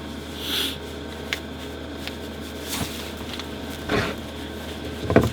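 Small electric space heater running steadily off a battery pack, its fan humming. Short knocks and rustles of handling come and go over it, with a quick cluster of clicks near the end.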